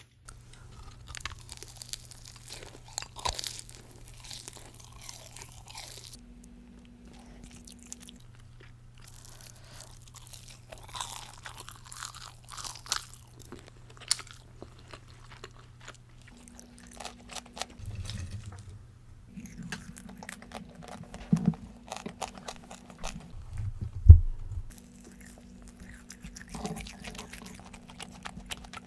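Close-up crunching and chewing of cheese-seasoned boneless fried chicken, in irregular runs of crisp bites and chews. One loud low thump about three quarters of the way through.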